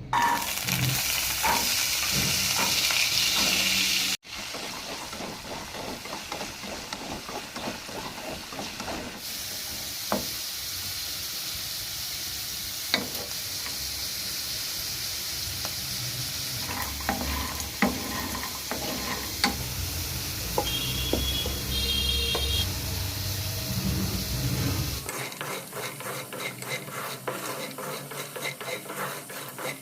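Food frying in a pan of hot oil, sizzling loudly for the first few seconds, then more steadily, while a utensil stirs it, scraping and clicking against the pan. The sound changes abruptly at several cuts, with a fast run of stirring ticks near the end.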